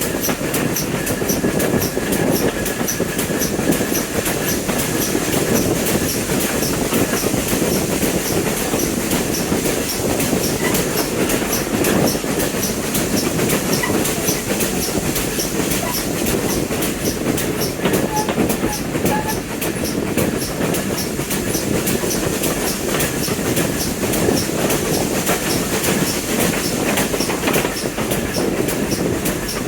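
A train running along jointed track, its wheels clicking in a steady rhythm over the rail joints beneath a continuous rumble.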